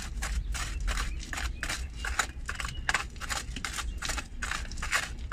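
Hand hammer chipping at concrete with quick light strikes, about three a second, over a steady low rumble.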